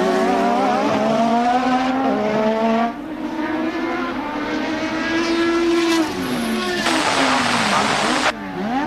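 1988 Formula One cars' engines running at high revs, their pitch rising and falling as they pass, change gear and brake. From about seven seconds in there is a second of loud rushing noise that stops abruptly.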